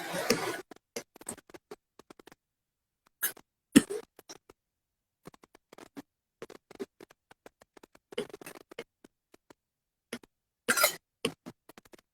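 Irregular short rustles, taps and clicks close to the microphone, with louder bursts at the very start, about three and a half seconds in, around eight seconds, and near eleven seconds.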